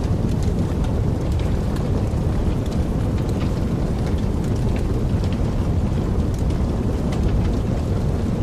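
Wood fire burning in a fireplace: a steady low rush from the flames with many small, scattered crackles throughout.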